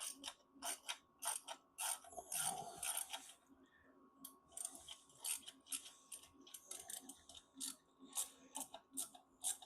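Ratchet spanner clicking in short, irregular strokes as a bolt is worked, with a brief pause partway through.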